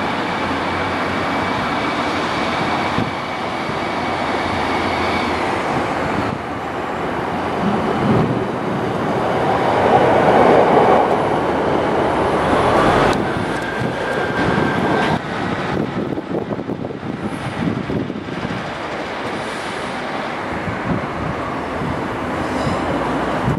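Diesel multiple unit passing close below, its engine and wheels on the rails loudest about ten seconds in, then easing off.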